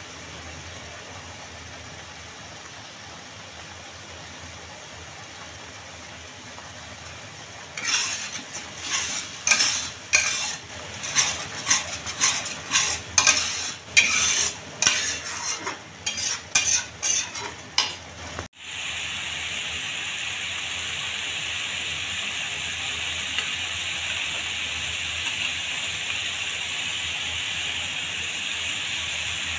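Ground paste frying in oil in a pan: a low sizzle at first, then a metal spatula scraping and stirring through it in quick strokes for about ten seconds. After an abrupt change partway through, a louder, steady sizzle of the paste frying.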